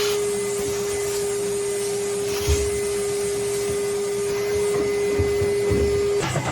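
Vacuum cleaner running steadily with a slender lint-trap attachment, sucking lint from inside a clothes dryer, with a steady whine and a couple of brief knocks. The whine cuts off shortly before the end.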